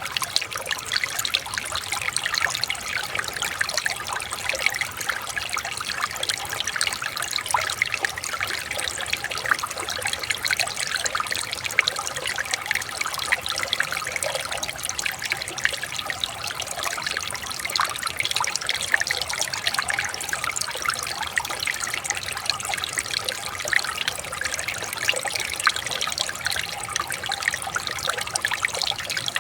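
Shallow river water trickling and splashing over stones in a steady, even babble.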